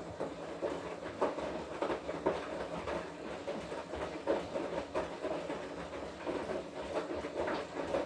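Washing machine running its wash cycle: the drum turns with a steady motor tone while the laundry and water tumble and slosh inside, giving many irregular soft knocks.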